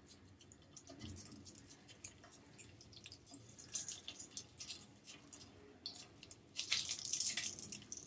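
Ghee sizzling and crackling faintly around pieces of rice-semolina cake shallow-frying in a nonstick pan, with denser spells of crackling about four and seven seconds in.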